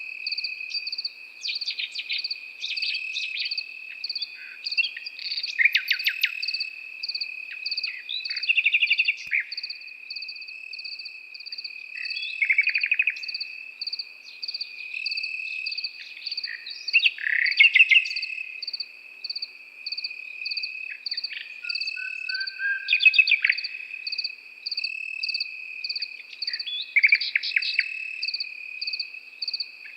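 A nightingale singing short, varied phrases of rapid repeated notes and brief whistles, over crickets: one steady, unbroken trill and a second, evenly pulsing chirp.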